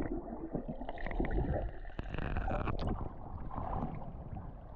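Sea water splashing and gurgling around a waterproof action camera as a swimmer dives in, uneven and mostly low-pitched, with small clicks and knocks.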